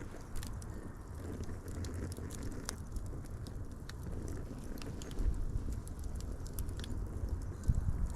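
Wood fire crackling: irregular sharp pops and snaps over a steady low rumble of burning, heavier from about five seconds in.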